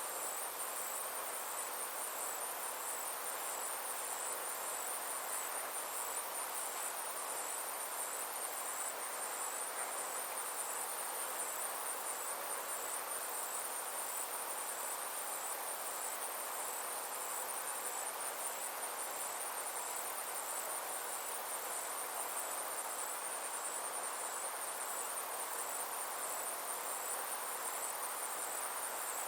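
Steady high-pitched insect trilling in fast, even pulses, over a soft, even hiss.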